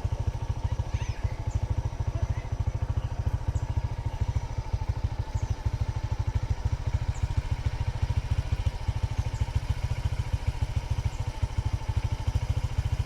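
A small engine running steadily with a fast low pulsing, like a motorcycle's engine heard from close by.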